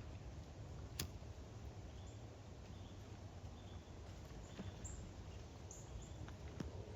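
Quiet outdoor ambience with a low steady rumble. A single sharp click sounds about a second in, and faint, short, high chirps come in the second half.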